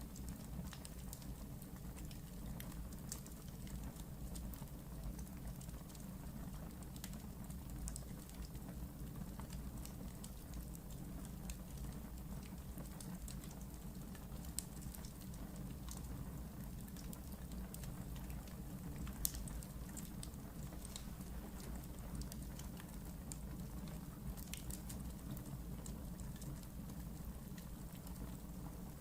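Wood fire burning in a fireplace: a steady low rumble of flames with irregular small crackles and pops, and a couple of sharper pops about midway.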